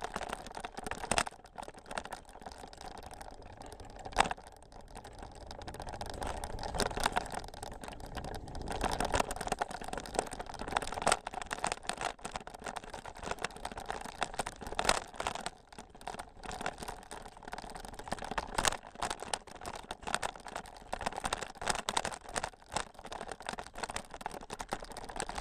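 Bicycle riding over a rough, rutted dirt trail: tyres crunching with an uneven stream of clicks and rattles and a few sharper knocks.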